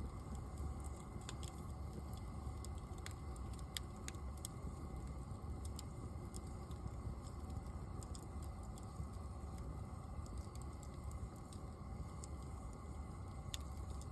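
Small wood fire crackling, with sharp pops scattered at irregular intervals over a steady low rumble.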